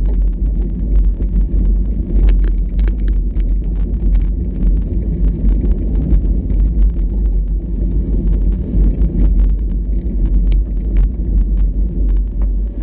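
Off-road vehicle driving on a rough trail: a steady low rumble with scattered sharp clicks and knocks, a cluster about two seconds in and a couple more later.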